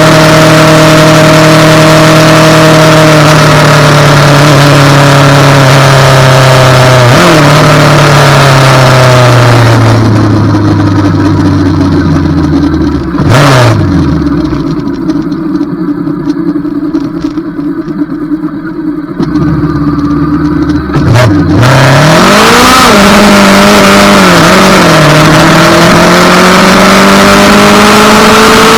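Motorcycle engine with wind rushing past at riding speed, then slowing with falling engine pitch and a couple of downshifts, idling at a stop with two quick throttle blips. It pulls away about two-thirds of the way in, climbing in pitch through a few gear changes while the wind noise builds again.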